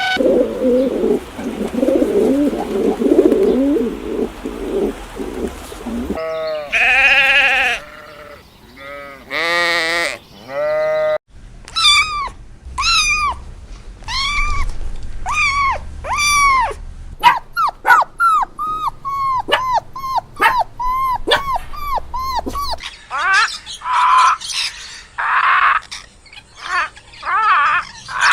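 A run of different farm animal calls: first bleating with a wavering pitch, then a long series of short, repeated calls about one a second that quicken in the second half.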